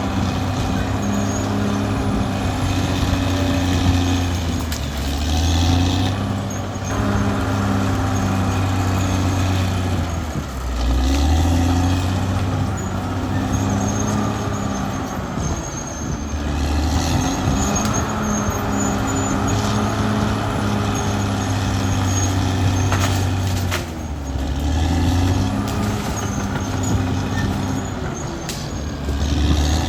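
Caterpillar D6R XL bulldozer's diesel engine running hard, its pitch sagging and recovering about five times, every five seconds or so, as the load comes on and off.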